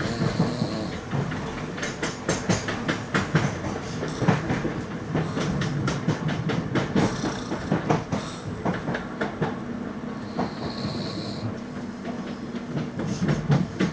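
Commuter train carriage heard from inside while under way: wheels clattering over rail joints with irregular clicks and rattles over a steady running rumble. A short high hiss comes at the start and again about eleven seconds in.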